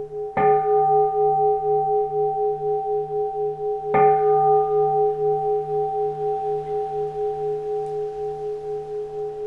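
Keisu, a Japanese Buddhist bowl bell, struck twice about three and a half seconds apart. Each strike rings on over the last as a long, slowly pulsing hum that gradually fades.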